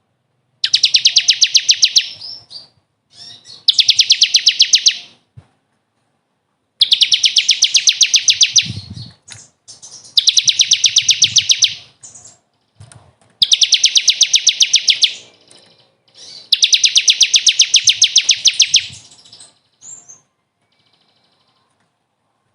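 Recorded songbird song: six bursts of a rapid, evenly pulsed high trill, each about a second and a half long, separated by short pauses.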